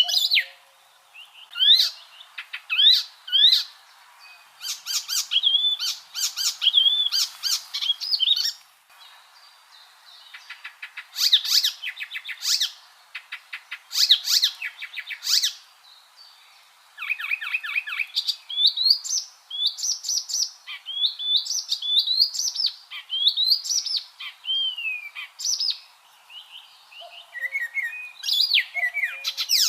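Icterine warbler singing: a rapid, varied song of chirps, slurred whistles and buzzy trills, delivered in phrases separated by short pauses.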